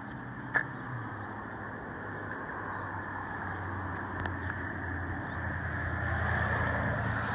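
Steady low rumble and hiss that slowly grows louder, with a single sharp click about half a second in.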